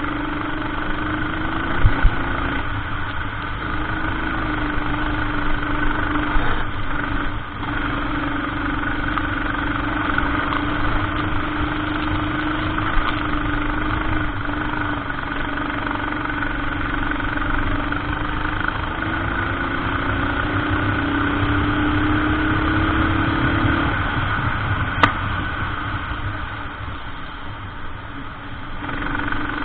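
Racing kart engine running at race pace, its pitch dipping and climbing again several times, with a couple of brief knocks.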